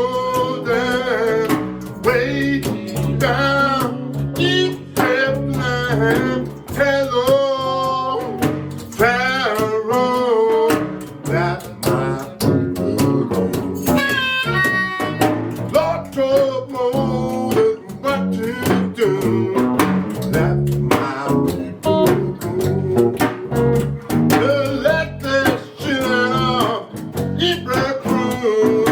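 Live blues music: a harmonica plays lead lines with bent, wavering notes over guitar accompaniment.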